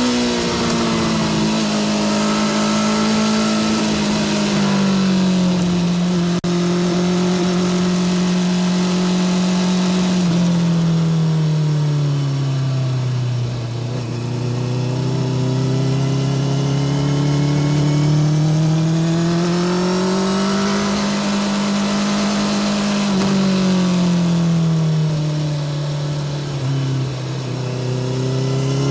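Honda CBR650R inline-four engine through a Spark full titanium exhaust, pulling along at steady throttle. Its pitch sinks slowly to a low point around the middle, climbs again, dips and rises once more near the end as the revs change with the road.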